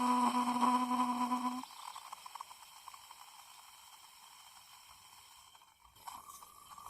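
SHURflo RV diaphragm water pump running with a steady hum while pumping water through a hose, cutting off suddenly about a second and a half in. After that only a faint hiss, with a faint high tone starting near the end.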